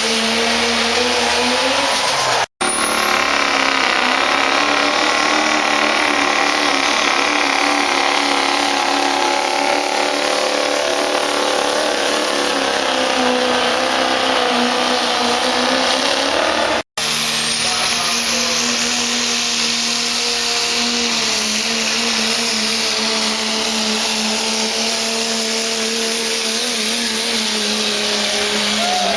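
Turbocharged diesel pickup trucks at full throttle pulling a sled, engines running hard under steady heavy load with the pitch drifting slowly. The sound breaks off abruptly twice as it switches to another run.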